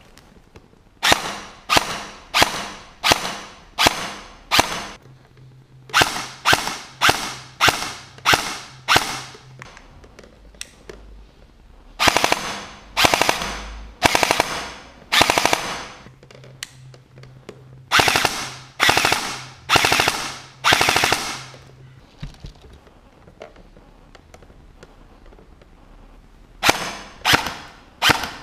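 Diboy M4 CQB airsoft electric gun (AEG) firing single semi-automatic shots in strings of four to seven, roughly two shots a second, each a sharp crack with a short ringing tail. There is a pause of several seconds about two-thirds of the way through before the last string.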